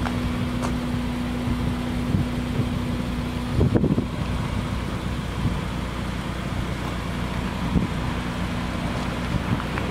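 Ariel Atom 2's Honda engine idling with a steady low hum, its pitch settling slightly lower partway through, and a brief knock about four seconds in.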